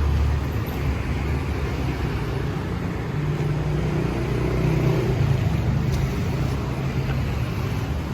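Street traffic: engines of passing motor vehicles running in a steady low rumble.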